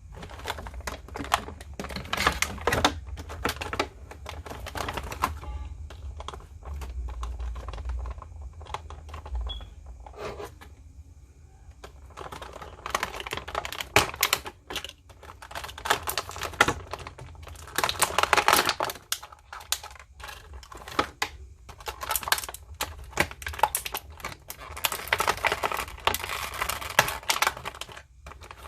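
Plastic action-figure packaging and parts being handled: dense, irregular clicking, tapping and crinkling of hard plastic trays and wrappings.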